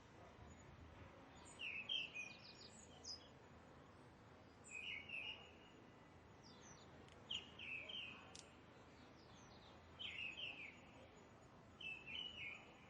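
A bird repeating a short chirping phrase five times, about every two and a half seconds, over faint steady background hiss.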